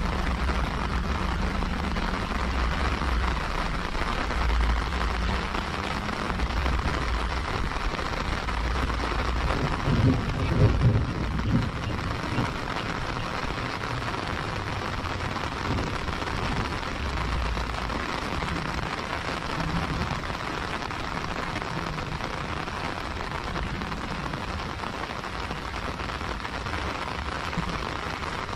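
Heavy rain falling steadily, an even hiss of drops on paving and fields, with a low rumble underneath that swells for a couple of seconds about ten seconds in.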